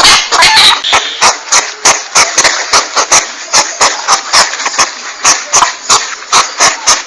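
Porcupine calls: a fast, uneven run of short, noisy pulses, about four a second, played as a hunting lure.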